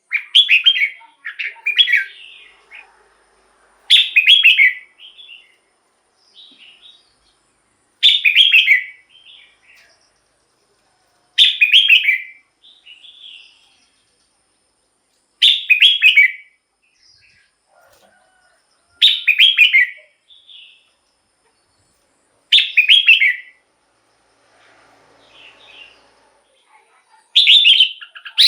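Red-whiskered bulbul singing short whistled phrases about a second long, one every three to four seconds, with softer notes in between.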